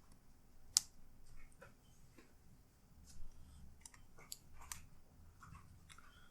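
Scattered light clicks and taps from laptop parts and tools being handled during disassembly, with one sharper click about a second in.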